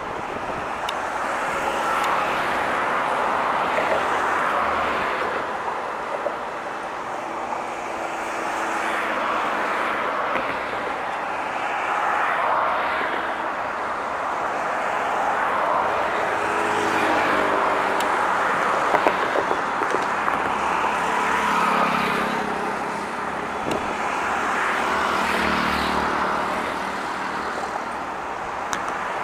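Loaded freight train wagons rolling along the track, a steady rolling rumble that swells and eases every few seconds.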